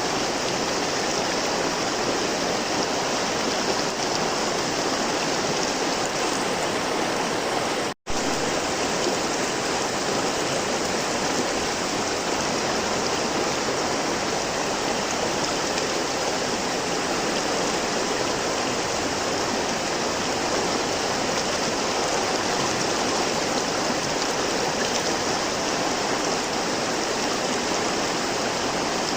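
River water flowing in a steady, even rush, cutting out for an instant about eight seconds in.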